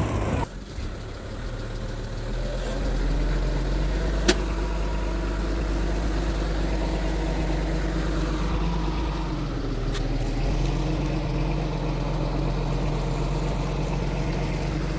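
Bulldozer diesel engine running steadily at a low, even speed, with a sharp click about four seconds in.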